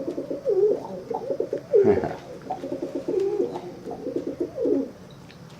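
Rock dove (pigeon) cooing: a run of low, rolling coos one after another, dying away near the end.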